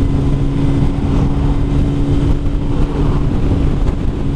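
Kawasaki ZZR600's inline-four engine running at steady revs while cruising, with a constant engine tone under heavy wind rumble on the helmet microphone.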